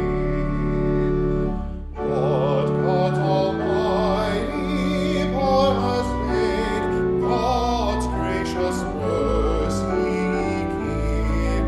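Music from a church service: a voice singing with a strong vibrato over sustained keyboard accompaniment, with a brief pause between phrases about two seconds in.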